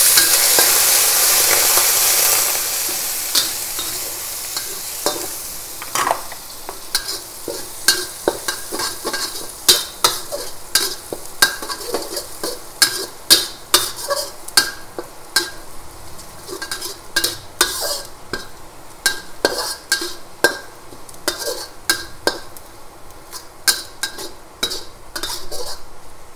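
Soaked dried anchovies hitting hot oil and fried garlic in a metal wok, a loud sizzle that fades after about two seconds into a steady, quieter frying hiss. Through the rest, a metal spatula scrapes and clinks against the wok again and again as they are stirred.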